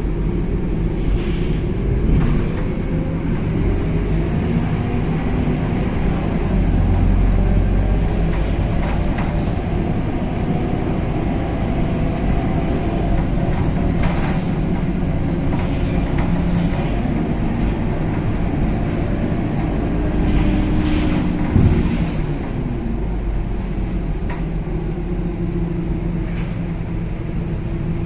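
Scania K270UB city bus heard from inside the cabin while driving. The engine drones, its pitch rising and falling as the bus speeds up and slows, with occasional short knocks and rattles from the body.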